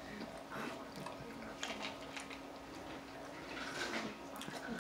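Quiet eating sounds: chewing and small wet mouth clicks from people eating chicken nuggets and fries, over a faint steady hum.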